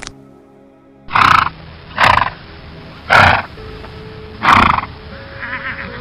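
A farm animal calling: four loud, rough calls about a second apart, then a fainter one near the end, over soft background music.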